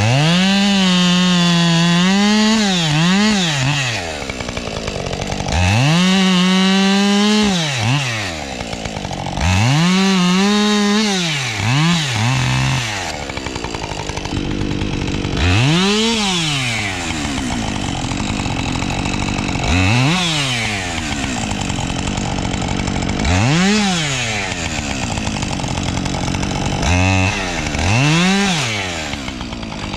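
Husqvarna two-stroke chainsaw revving up to full throttle and dropping back to idle, again and again. The first three revs are held at the top for about two seconds each; after that come shorter blips of the throttle, one every three to four seconds.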